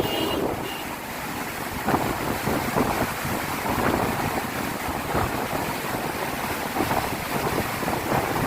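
Floodwater rushing through an open barrage gate: a steady, dense roar of fast-flowing water, with wind buffeting the microphone.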